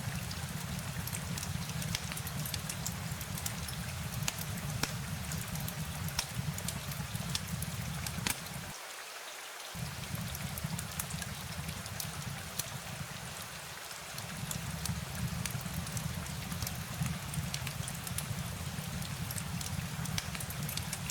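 Steady rain ambience with many separate drop ticks scattered over a continuous hiss. A low rumble underneath cuts out for about a second roughly nine seconds in, then returns.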